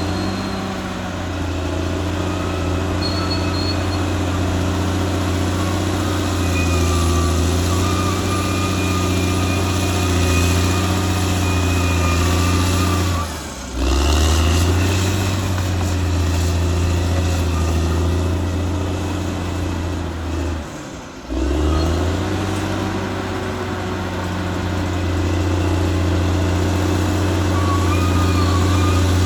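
Caterpillar D6R XL bulldozer's diesel engine running steadily under load, with a higher whine that rises and falls above the engine note. The sound drops out briefly twice.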